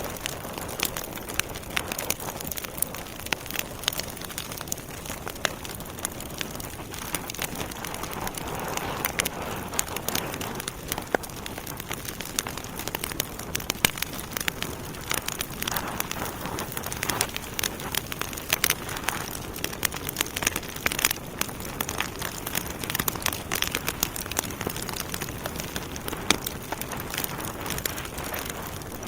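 Wood logs burning in a fireplace, crackling with a steady stream of irregular sharp pops and snaps over a constant low hiss of flame.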